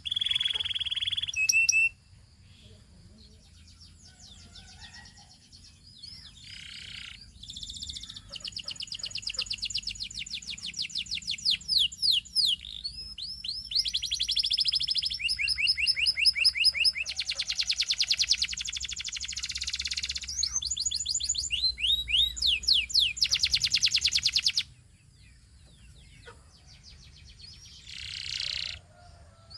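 Domestic canary singing in long phrases of fast trills and rapidly repeated notes, broken by a quiet pause after about two seconds and another near the end.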